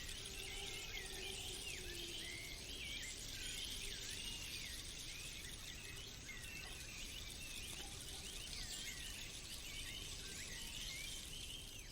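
Faint forest ambience: many small birds chirping in quick, short calls over a steady high insect hiss.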